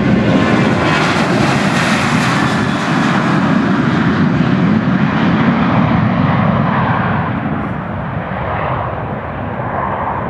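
Airliner engines passing close by, loud, with a high hiss that peaks about two seconds in and then dulls and fades as the aircraft moves away.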